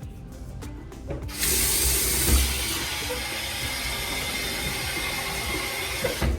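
Sink faucet running in a steady hiss, turned on about a second in, a little stronger at first, and shut off just before the end.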